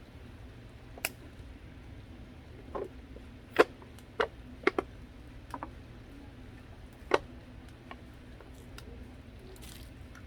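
A scattering of sharp light clicks and knocks, about nine of them at uneven intervals, the loudest a little past three and a half seconds in, over a low steady hum.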